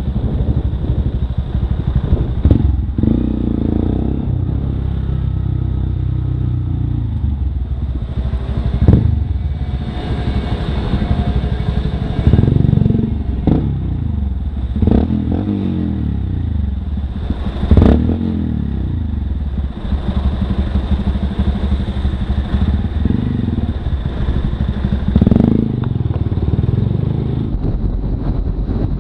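Motorcycle engine heard close up from the rider's action camera, running steadily and revving up and easing off about six times.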